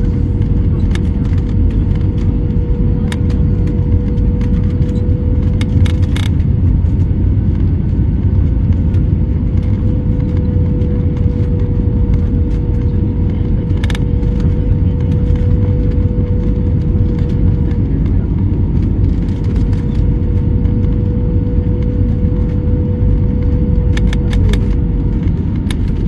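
Jet airliner cabin noise: a loud, steady low rumble with a steady engine hum. A few sharp clicks and rattles come through, several together near the end.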